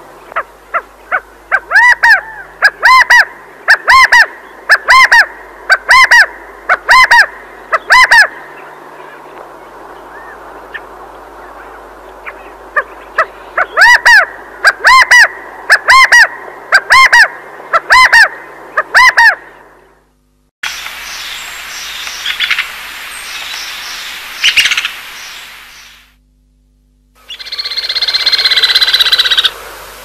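A bird calling loudly, one arched yelping note about once a second in two long runs, then two shorter passages of different, rougher bird sounds after a brief silence.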